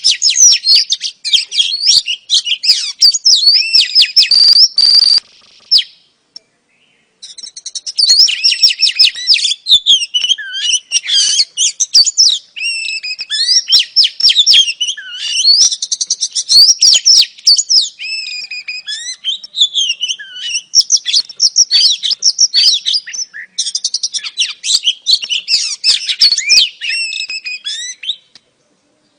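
Oriental magpie-robin (kacer) singing a dense, fast stream of varied chirps, whistles and trills, said to be a female's song used to lure males. It breaks off for about a second and a half around six seconds in, then carries on and stops shortly before the end.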